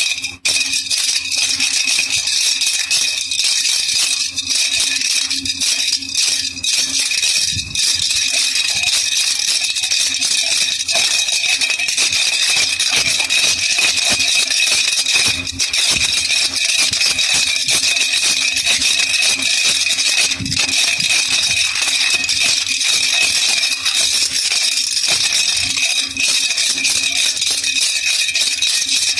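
Baby rattle (jhunjhuna) shaken without pause: a dense, steady rattling.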